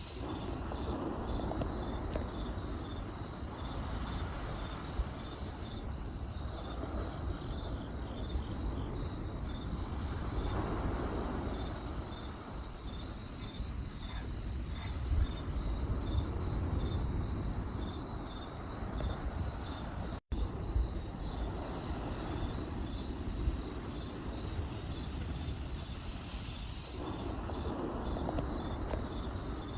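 Crickets chirping in a steady, pulsing trill over a low rumble and occasional sharp pops of a crackling campfire. The sound drops out for a split second about two-thirds of the way through.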